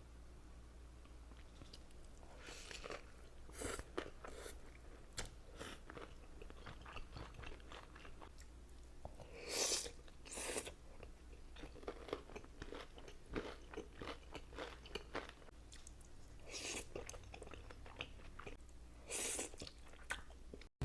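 Close-miked eating: a person chewing and taking crunchy bites, with a few louder crunches spread through.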